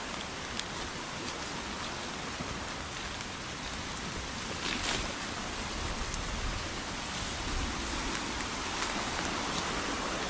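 Heavy rain falling steadily, with scattered drops ticking close by, over the rush of a flooded creek that grows a little louder toward the end.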